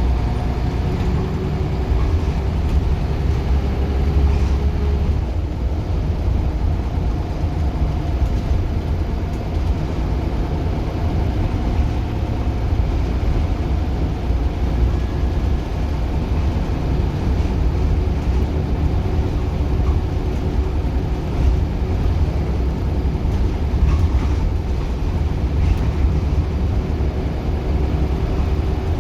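Scania Solar single-decker bus under way, its diesel engine giving a steady low drone with a faint higher whine over it.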